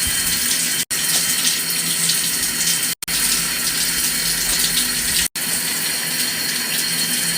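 A shower running steadily at full pressure, spraying a pet bird, broken by three brief silent gaps where the clip is cut.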